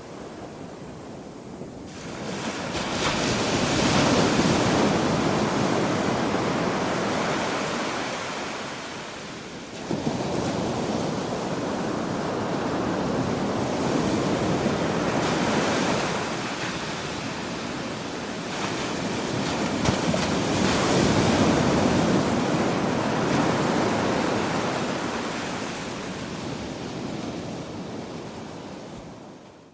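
Ocean waves breaking and washing on a shore in slow surges: rushes build around four seconds in and again around twenty-one seconds, with a sharper break about ten seconds in. The surf fades out at the end.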